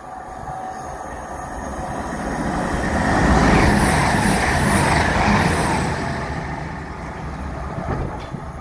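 East Midlands Railway Intercity diesel multiple unit (Class 222 Meridian) running along the platform: engine and wheel-on-rail noise builds to its loudest about three to five seconds in as the carriages pass, then fades away.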